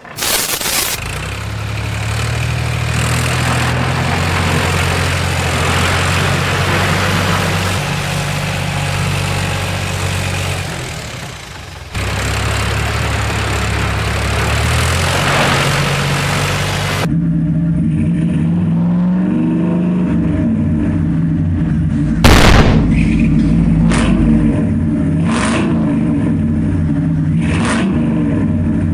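Vehicle engine sounds running and revving in several edited stretches, the sound changing abruptly about twelve seconds in and again about seventeen seconds in. In the last stretch a few sharp bangs sound over the engine, the loudest about two-thirds of the way through.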